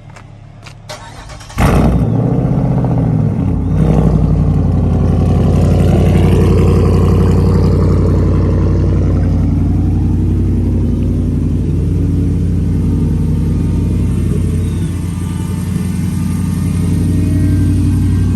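2010 Jeep Grand Cherokee SRT8's 6.1-litre Hemi V8 starting up on fresh oil after an oil change. It fires about a second and a half in, its revs rise once more near four seconds, and then it settles into a steady idle.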